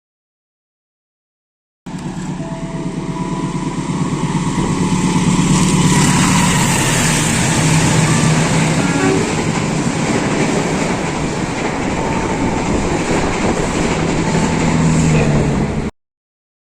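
Train passing, a steady low drone with rumbling wheel noise that builds over the first few seconds, then holds. The sound begins abruptly about two seconds in and cuts off abruptly near the end.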